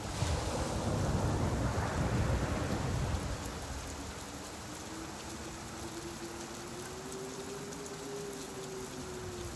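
Steady rain falling, with a low rumble that swells for the first three seconds and then eases, leaving an even hiss of rain.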